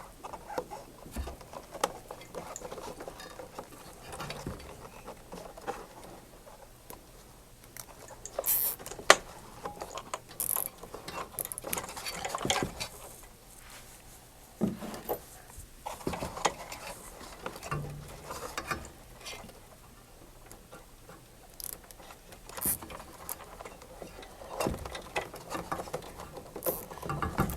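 Plastic zip ties being pulled tight around bundled wires: a few short zipping ratchets among scattered clicks and rustling from handling the wires.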